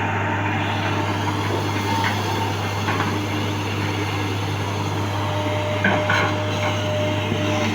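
Excavator's diesel engine running steadily with a deep hum, and a few short knocks about two, three and six seconds in.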